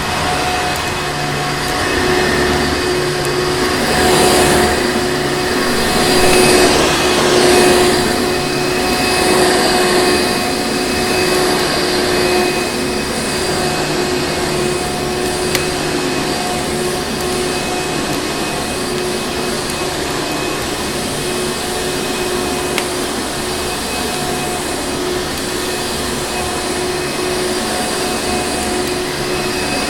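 Vacuum cleaner motor running continuously, a steady rushing drone with a constant whine, swelling a little a few seconds in. A couple of faint clicks sit under it.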